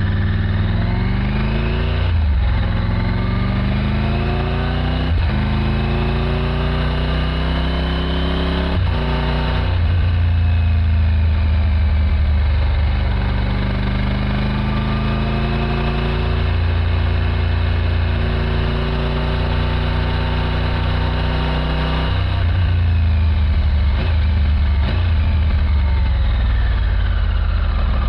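A 2024 Triumph Tiger 900 GT Pro's three-cylinder engine, still in its running-in period, pulls up through the gears. Revs climb and drop back at three quick upshifts in the first nine seconds, hold at a steady cruise, then fall away from about 22 seconds in as the bike slows.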